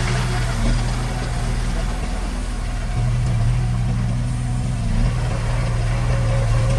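Heavy construction-machine diesel engine running steadily with a low hum, easing off about a second in and picking up again about three seconds in.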